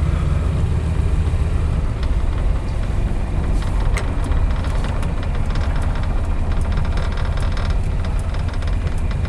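1966 Dodge Coronet 440's rebuilt 318 V8 running steadily with road noise as the car is driven, a low rumble heard from inside the car.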